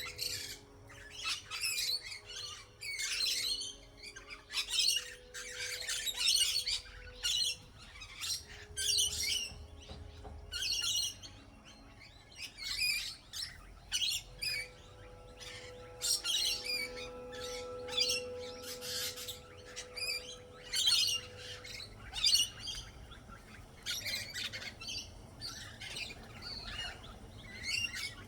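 Birds chirping and calling: many short, high calls repeated throughout with brief gaps.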